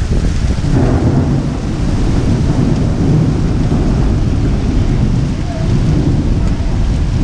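Thunder rumbling through a heavy thunderstorm over steady hard rain. The rumble swells about a second in and eases a little after about five seconds.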